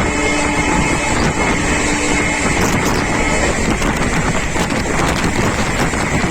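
Express passenger train running at speed, heard on board: a steady loud rush of wind and rail noise, with a faint steady hum that fades out about halfway through.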